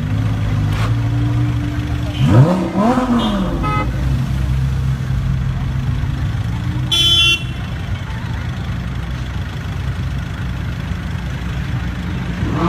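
A car engine idling steadily, blipped once about two seconds in so its pitch quickly rises and falls back. A short, high beep sounds about seven seconds in.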